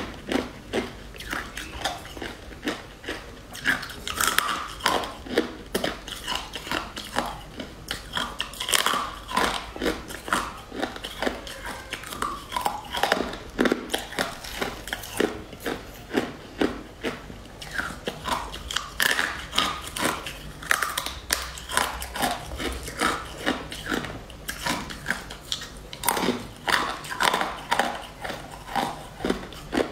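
Close-miked biting and crunchy chewing of hard, translucent, frost-coated sticks: a steady run of sharp crackling crunches, several a second.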